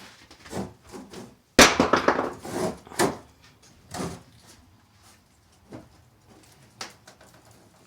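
A sudden loud clatter about one and a half seconds in, then a few separate knocks: building material such as wall panelling or debris being handled and moved.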